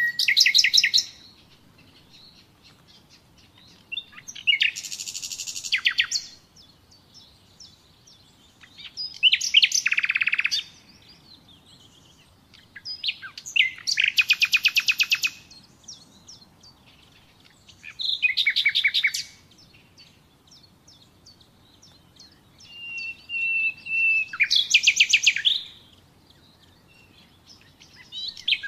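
Common nightingale singing: short phrases of fast repeated notes and trills about every four seconds, with quiet pauses between. One phrase near the end opens with a held whistled note before the rapid trill.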